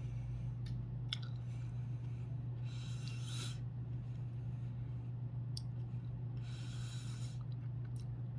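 A person chewing a jelly bean, with a few soft mouth clicks and two long breaths through the nose, over a steady low hum.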